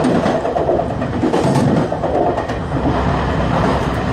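Train running along the track, heard from inside the train: a steady rumble of wheels on rail with a few light clicks.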